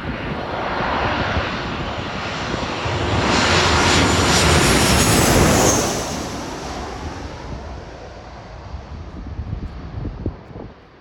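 Jet airliner passing low overhead on its landing approach. The engine roar builds, peaks about four to six seconds in with a high whine on top, then fades away.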